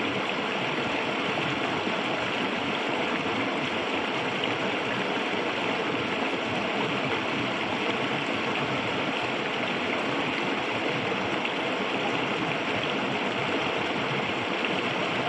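Clear, shallow river water flowing steadily over its bed: an even, unbroken rush of running water.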